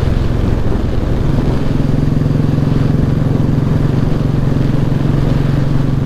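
Royal Enfield motorcycle engine running under way at a steady cruising pace. The engine note eases briefly in the first second and a half, then holds even.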